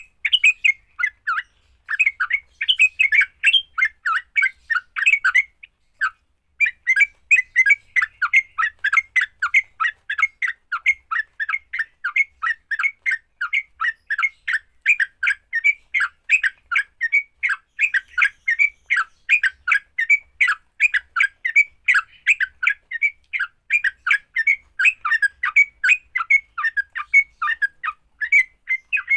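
Yellow-vented bulbul (trucukan) giving its rapid, chattering fighting song, several sharp notes a second, with a brief pause about six seconds in.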